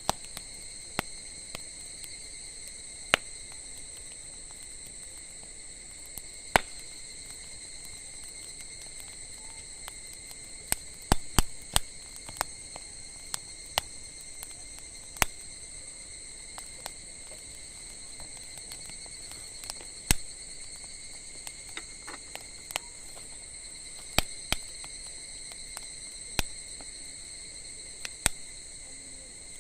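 Burning firewood in a top-down campfire crackling with sharp, irregular pops, several in quick succession about eleven seconds in. Under it, insects trill steadily in a high, unbroken drone.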